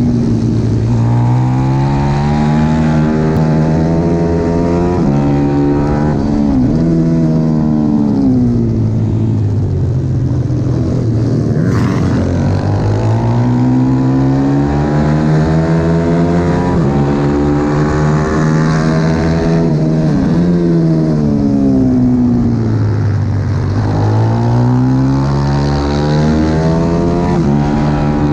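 Pit bike's small single-cylinder four-stroke engine at racing revs, its pitch climbing for several seconds at a time and then dropping away, over and over, as it accelerates and backs off around a circuit.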